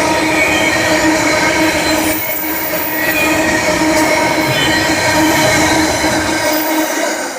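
Wheels of a rail vehicle running on track, with a loud, steady squeal of several tones over the running noise; it eases slightly near the end.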